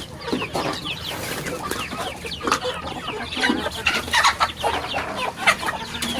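Many chickens clucking and calling at once, a dense run of short, overlapping falling calls.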